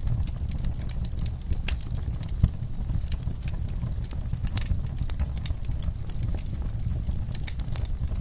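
Wood fire burning in a fireplace, with a steady low rumble of the flames and irregular crackles and pops of burning logs; one louder pop about two and a half seconds in.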